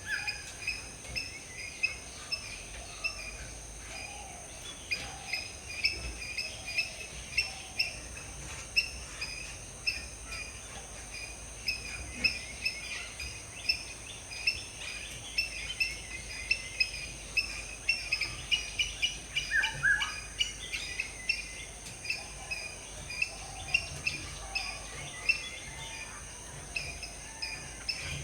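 Morning bird chorus of many short chirps repeated throughout, with a few lower whistled notes, over a steady high-pitched insect drone.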